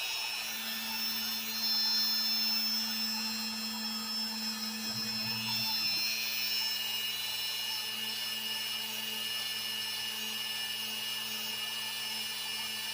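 Router spindle of a Piranha FX CNC running at speed, a steady high whine with a low hum under it.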